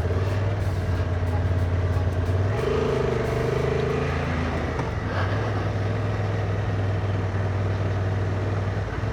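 Motorcycle engine running steadily while riding, with wind and road noise; the engine note changes about two and a half seconds in and again near five seconds.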